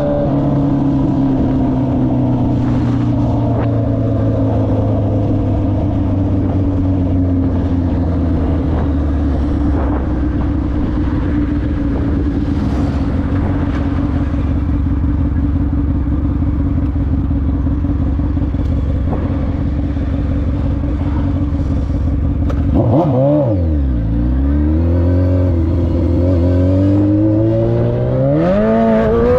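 Honda 919's inline-four engine running under way. Its pitch sinks slowly for about twenty seconds, dips and rises quickly a few times just past the two-thirds mark, then climbs as it revs up near the end.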